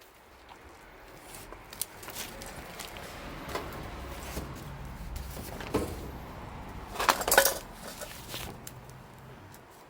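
Irregular knocks and clatter over a low rumble, with a short cluster of loud knocks about seven seconds in.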